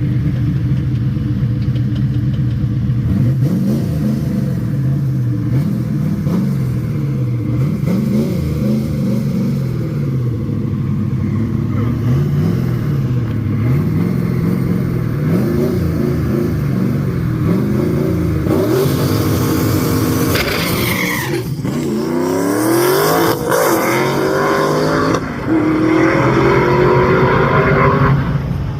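Drag racing car engines revving up and down at the line, then launching about two-thirds of the way in and accelerating hard down the strip, the pitch climbing in steep sweeps with breaks at the gear changes.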